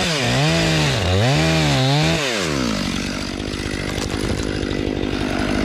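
Stihl MS500i fuel-injected two-stroke chainsaw. Its engine speed rises and falls several times, then drops back to a steady, lower idle about three seconds in.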